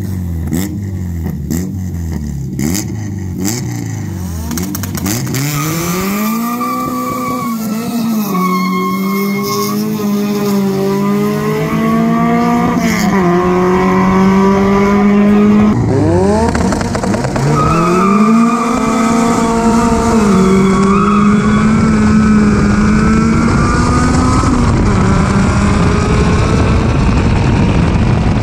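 Four-cylinder drag car engine revving in quick rising-and-falling blips, then accelerating hard under full throttle, its pitch climbing and dropping back at each upshift. Past the middle the pitch drops suddenly and climbs through the gears again.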